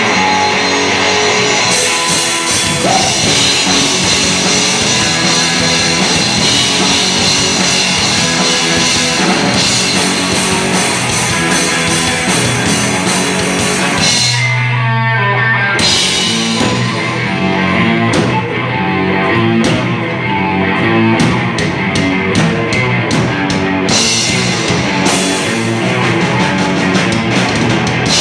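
Rock music with guitar and drum kit playing steadily; about halfway through the drums and high end drop out for a couple of seconds, leaving one held low note, before the full band comes back in.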